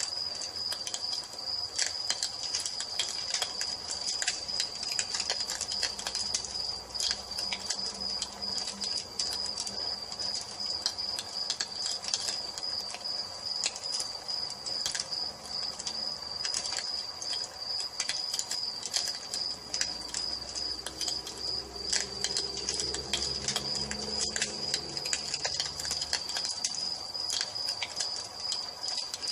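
Wood fire crackling with irregular small snaps and pops, over a cricket trilling steadily.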